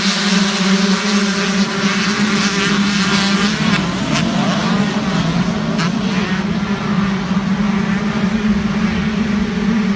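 Motocross bike engines racing: a steady drone, with engine notes rising and falling in the middle as bikes rev through the gears.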